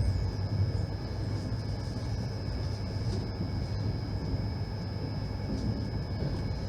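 Steady low rumble of an Indian Railways passenger coach heard from inside, the train running on the track. A thin, steady high whine sits over it.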